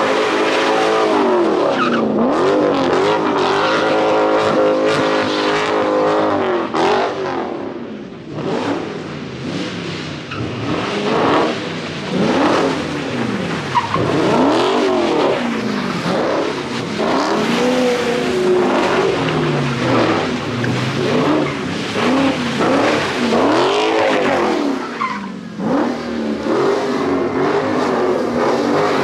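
A car engine revving hard, its pitch rising and falling again and again, with tyres skidding on the pavement, as a car does donuts in a street-takeover pit.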